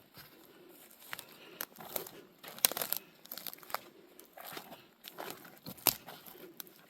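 Twigs and branches snapping and crunching underfoot, with crackling and rustling of dense undergrowth as a person forces a way through bush on foot. Irregular sharp cracks throughout, the two loudest a little under three seconds in and about six seconds in.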